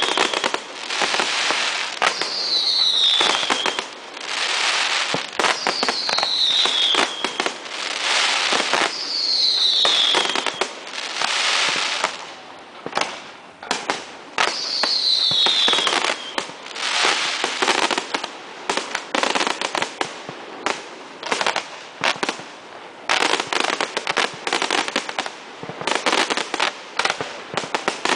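Fireworks display going off: bursts of crackling and rushing hiss, with four short whistles falling in pitch in the first half. A dense run of sharp crackling cracks comes near the end.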